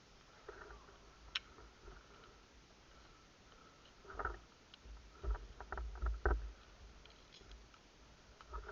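Faint rustling and a few dull low thumps, bunched together midway, with a single sharp click about a second and a half in.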